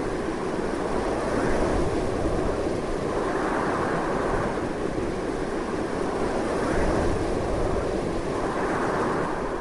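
Strong, steady wind blowing in gusty swells, a continuous rushing noise heaviest in the low and middle range.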